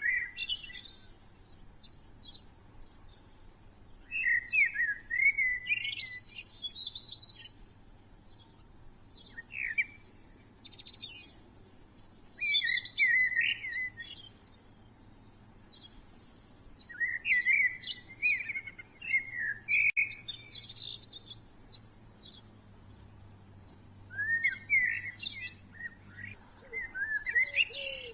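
A small bird singing high, quick chirping phrases of two or three seconds, repeated every few seconds with short pauses between.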